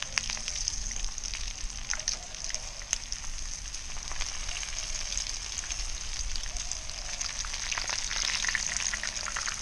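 Crumbed fish fillets shallow-frying in hot oil in a frying pan: a steady sizzle with many small crackling pops.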